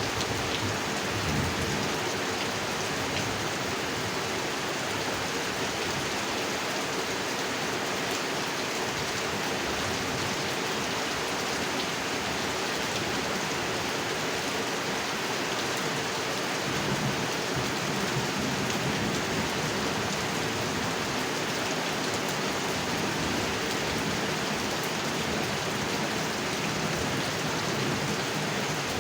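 Steady rain falling on a pond, an even, unbroken hiss of drops on water.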